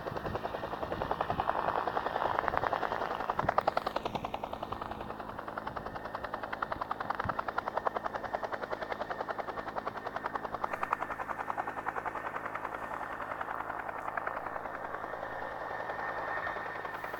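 Firefighting helicopter's rotor blades beating in rapid, even pulses over a steady engine hum, loudest about three to four seconds in.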